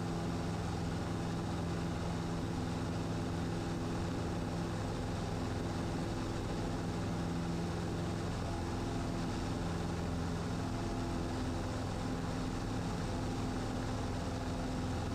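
Cessna 150's four-cylinder Continental O-200 engine and propeller running steadily at full power during the climb just after takeoff.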